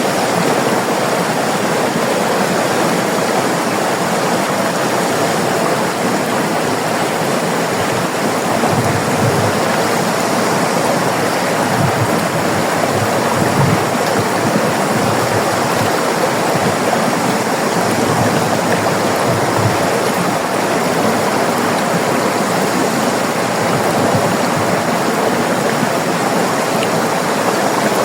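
River water flowing and rushing over rocks, a steady dense roar of running water with no breaks.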